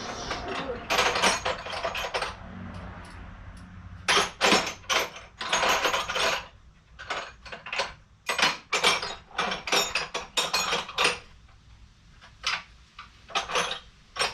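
Steel hand tools clinking and clattering: sockets, extensions and a ratchet knocking together in irregular clusters of sharp metallic clicks while a bolt is worked on.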